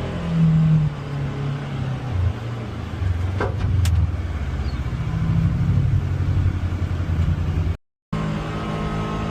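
Polaris Xpedition UTV engine running under varying throttle on an off-road climb, with a surge about half a second in and the engine note rising and falling after it. A single sharp click sounds near four seconds in, and the sound cuts out for an instant near the end.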